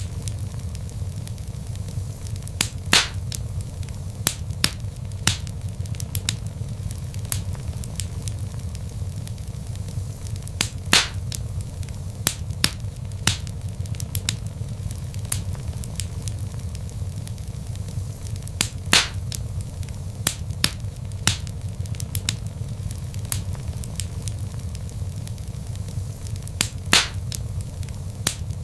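Wood logs burning in a fireplace: a steady low rumble with frequent irregular crackles and pops, a few of them sharp and loud.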